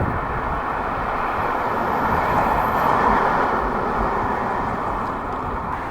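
A road vehicle passing by: a rush of tyre and engine noise that swells to a peak about three seconds in, then fades.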